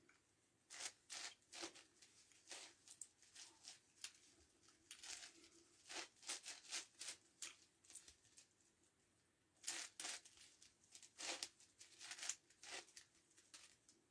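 Faint plastic clicking and rasping of a 9x9x9 Rubik's Cube's layers being turned, in irregular flurries of quick turns.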